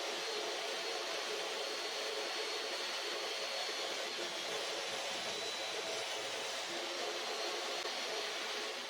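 An electric power-tool motor running steadily at constant speed, a rushing hiss with a faint steady hum and a thin high tone, without changes in load.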